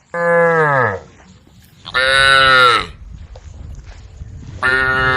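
Cows mooing: three long, loud moos, the first dropping in pitch as it ends, the third starting near the end.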